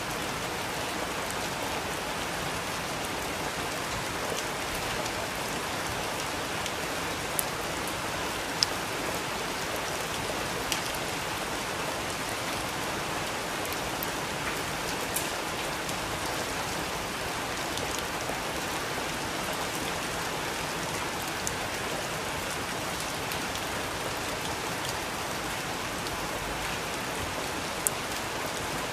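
Steady rain falling: an even hiss of rain on a surface, with a few sharper, louder single drops striking close by now and then.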